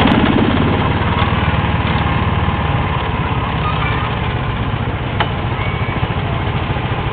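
Small engine of an amusement-park antique car ride car running steadily at low speed, with a loud, even, lawn-mower-like drone.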